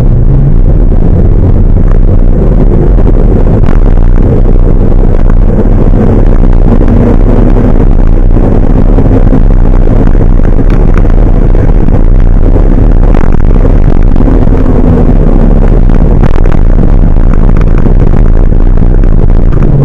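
Large truck's engine running loud and close, a steady low rumble whose pitch wavers slightly as it pulls, with occasional rattles.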